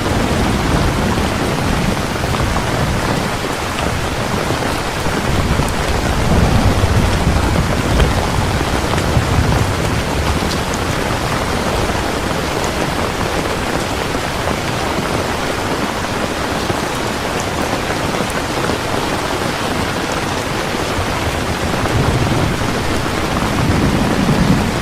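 Heavy rain falling steadily, with low rolls of distant thunder swelling about six seconds in and again near the end.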